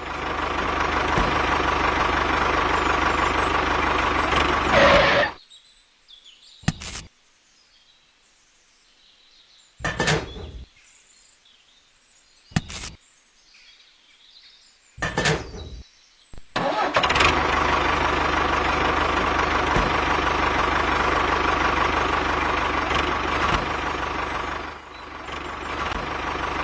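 A motor running steadily in two stretches of about five and eight seconds, separated by a pause with a few short clicks.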